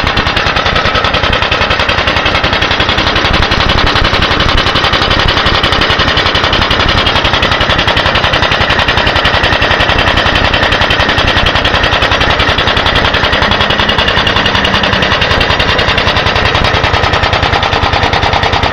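Briggs & Stratton FI single-cylinder engine on a 1930 Locke reel mower running steadily, a rapid even chain of exhaust pulses close up.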